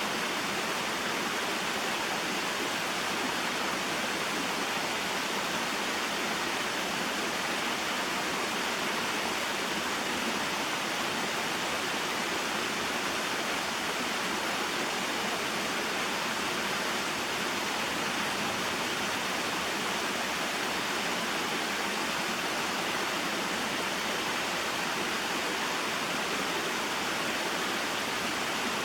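Small waterfall and stream: water falling and flowing in a steady, even rush that never changes or breaks.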